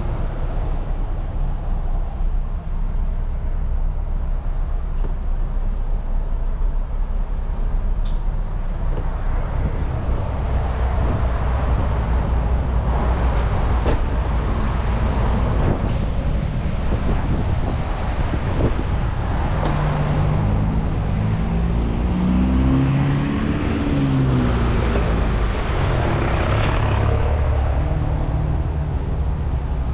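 RAM Rampage's 2.2 turbo-diesel engine and road noise on the move, a steady low rumble. About two-thirds of the way through, the engine note rises and then falls back.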